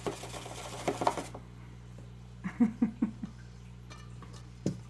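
Rustling, rattling shake of a dough ball being tossed in a container of sugar for about a second, with a few clicks. Then a few short vocal sounds and a single knock near the end, over a steady low hum.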